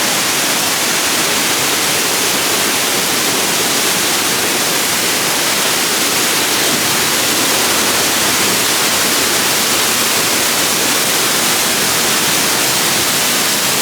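Steady, loud rushing of a nearby waterfall, even and unbroken throughout.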